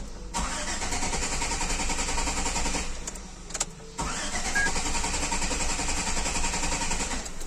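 A car engine being cranked by its starter motor without catching, in two attempts of about three seconds each with a short pause between them.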